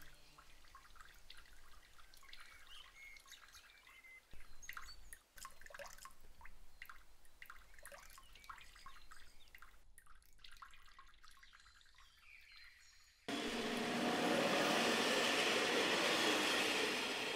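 Water splashing and trickling as people wade and grope about in a shallow river. About thirteen seconds in, it cuts suddenly to a passenger train passing close by, a loud steady rush of wheels and carriages that begins to fade near the end.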